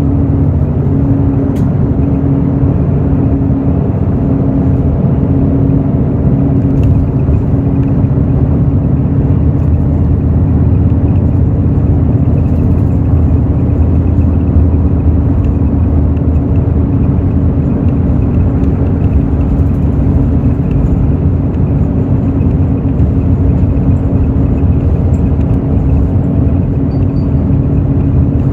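Hino J08E-VD straight-six diesel engine of a Hino RN8JSVU bus running steadily under way, heard from inside the bus: a steady low hum with road noise.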